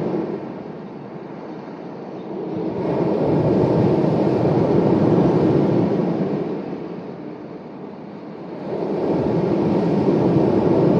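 Sea waves breaking and washing up the shore. The rush of water swells about three seconds in and again near the end, and ebbs between each surge.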